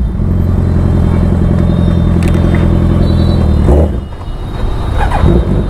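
Suzuki Hayabusa motorcycle's inline-four engine running at a steady note. About two-thirds of the way through it drops away briefly, then picks up again.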